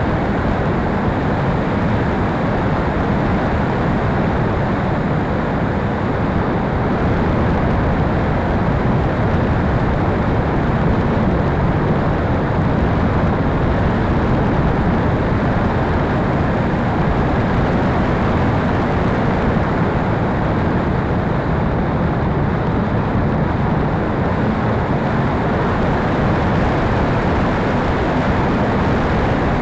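Steady rushing wind noise over the microphone, even and unbroken, with no motor tone.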